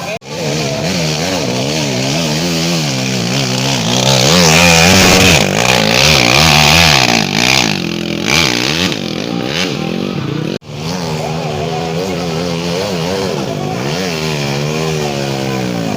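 Off-road trail motorcycle engines revving hard and unevenly as the throttle is worked up and down on a steep climb, loudest about four to seven seconds in. The sound breaks off sharply twice, shortly after the start and about ten and a half seconds in.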